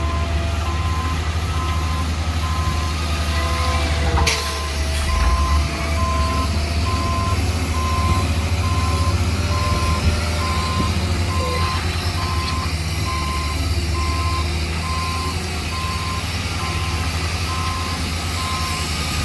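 Heavy diesel construction machine running with a deep, steady engine rumble while its reversing alarm sounds a steady series of evenly spaced beeps at one pitch. It is backing up. A single sharp knock comes about four seconds in.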